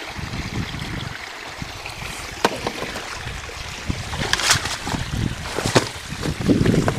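Footsteps sloshing and squelching through shallow ditch water, with a few sharper splashes or knocks, over running water and rough rumbling on the microphone.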